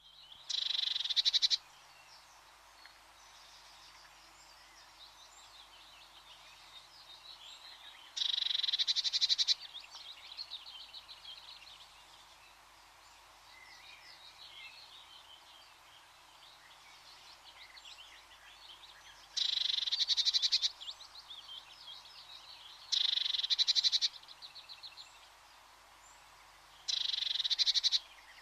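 Outdoor wildlife chorus: a loud, rapid trill repeats five times, each lasting about a second, over a steady background of softer, high chirps and calls.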